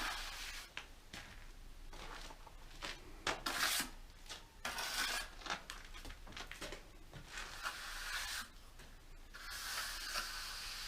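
Irregular scraping and rubbing strokes, some brief and some lasting a second or more.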